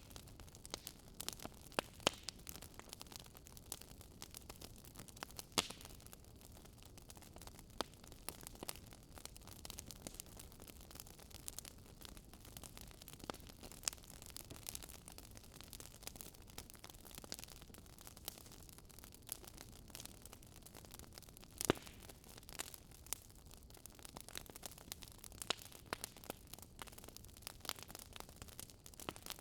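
Wood fire crackling in a fireplace: a soft hiss with frequent sharp pops and snaps at irregular intervals, a few of them louder.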